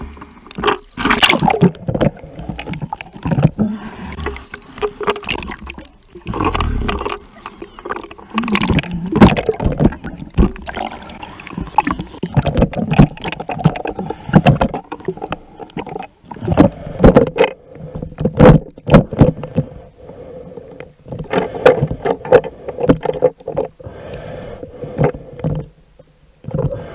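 Water splashing and sloshing close to the microphone, with loud irregular knocks and swishes. A steady hum runs under it through the second half.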